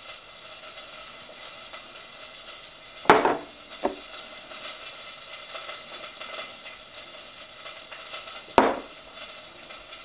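Food frying in a pan, a steady sizzle throughout. Two sharp knocks of dishes or utensils cut in, about three seconds in and again about a second and a half before the end.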